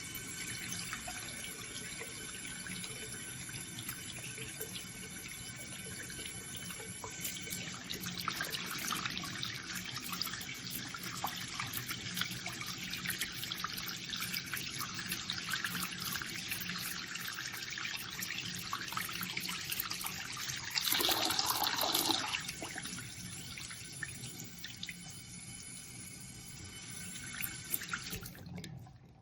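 Water running steadily from a waterfall-spout bathroom faucet into the sink basin, with a brief louder splash about two-thirds of the way through. The flow shuts off near the end.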